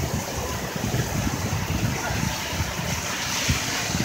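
Heavy downpour of rain pouring onto a paved street and sidewalk, a steady rushing hiss, with wind buffeting the microphone in low rumbles.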